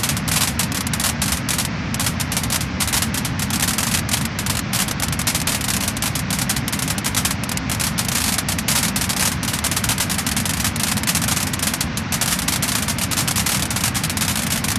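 Wood fire crackling and popping continuously, a dense stream of rapid sharp crackles over a low rumble.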